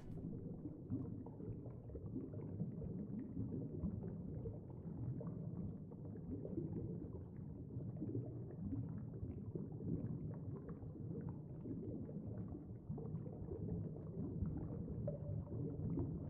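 Muffled underwater ambience: a steady low rumble with faint bubbling ticks.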